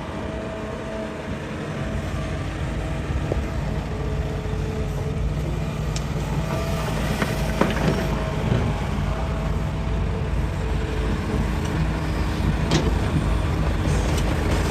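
Hitachi excavator's diesel engine running under load while digging rock, a steady drone that builds slightly a couple of seconds in. Scattered sharp knocks of rock against the bucket.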